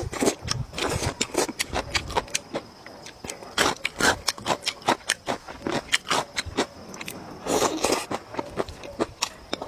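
Close-miked eating: a person chewing and biting food, with a dense run of irregular wet clicks, smacks and short scrapes.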